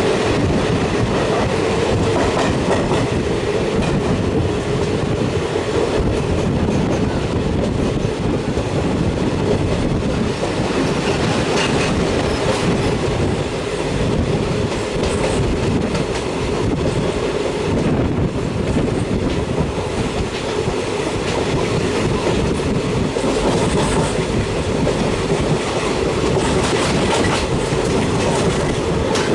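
Passenger train rolling past at speed: a steady rumble of wheels with clickety-clack over the rail joints.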